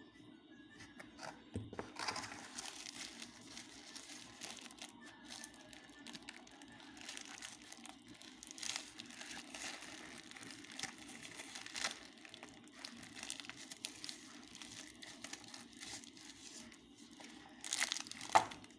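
Packaging crinkling and rustling as it is handled, with scattered sharp crackles and a louder burst of crackling near the end.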